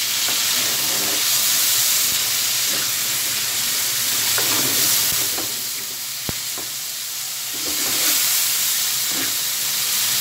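Yogurt-marinated chicken pieces sizzling in a little oil in a black pan, stirred and scraped repeatedly with a metal slotted spatula. A single sharp tap sounds a little past halfway, while the sizzle dips slightly.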